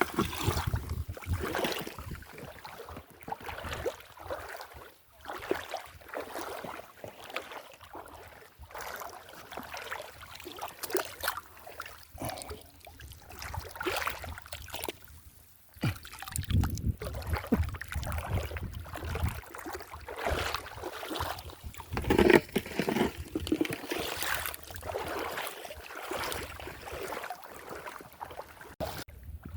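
Water splashing and sloshing in irregular bursts, with scattered sharp knocks and a louder splash about two-thirds of the way through.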